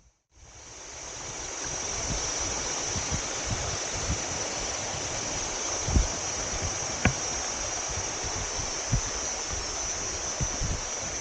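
Waterfall cascading down rocks, a steady rush of water that fades in over the first couple of seconds. A few short low thumps on the microphone about halfway through.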